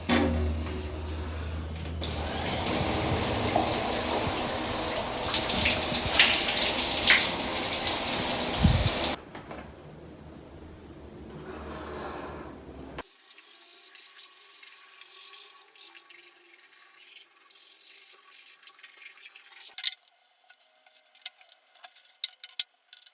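Water running loudly for about seven seconds, then stopping, with fainter noise that dies away; after that, scattered faint clicks and small knocks.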